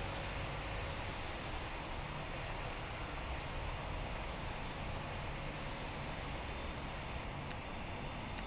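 Steady rumble of jet aircraft engines, with no change in loudness.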